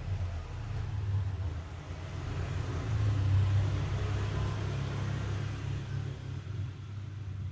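A low rumble that swells to its loudest about midway and then eases off.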